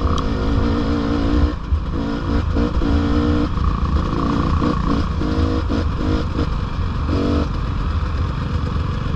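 Dirt bike engine heard from the rider's seat, the throttle opening and closing in short stretches so the revs rise and fall, over a steady low rumble.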